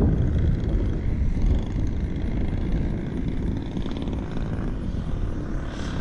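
Radio-controlled model airplane flying, its engine and propeller drone slowly fading, with low wind rumble on the microphone.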